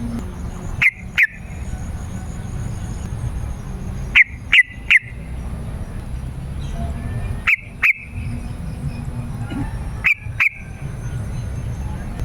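Yellow-vented bulbul (trucukan) calling: short, sharp notes in pairs and threes, a group about every three seconds, over a steady low background rumble.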